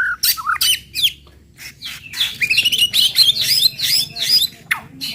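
White-rumped shama (murai batu) singing a fast run of sharp chirps, sliding whistles and clicks, with a short pause about a second and a half in before the song picks up again.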